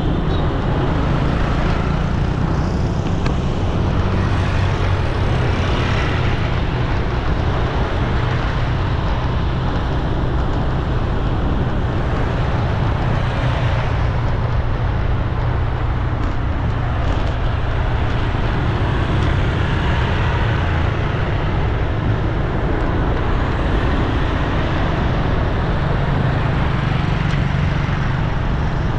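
Steady road traffic: a continuous rush of engines and tyres with a low hum underneath.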